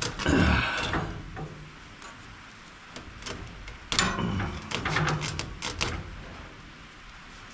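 Hand work on a round baler's teeth roller: scraping and knocking of tools and metal parts while twine is cut and pulled free. There is a loud scraping burst at the start, a few sharp clicks about three seconds in, and a second longer burst of clicks and scraping about four seconds in.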